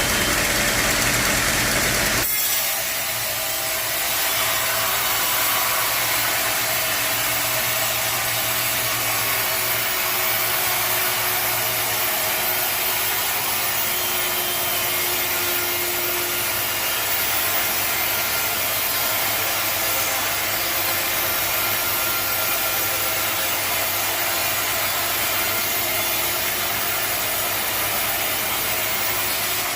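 Sawmill saw cutting through timber: a steady, hissy sawing sound over a fainter machine hum. About two seconds in, the sound changes abruptly from a lower engine-like running to the sawing.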